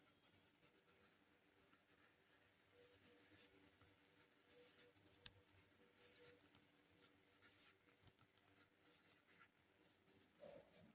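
Drawing on paper: a pen or pencil tip scratching in short, irregular strokes, faint and high-pitched.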